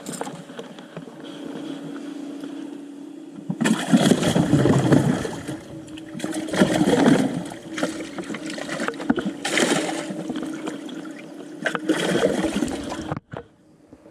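Water sloshing and gurgling in surges over a steady motor hum aboard a bass boat; it all cuts off abruptly near the end.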